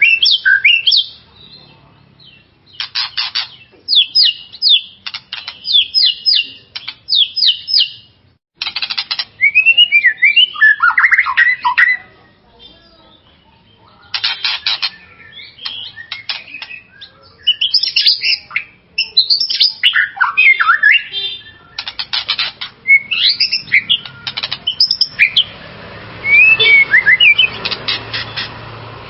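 White-rumped shama (murai batu) singing loudly in repeated phrases: fast rattling strings of harsh chattering notes alternating with slurred, gliding whistles, with brief pauses between phrases.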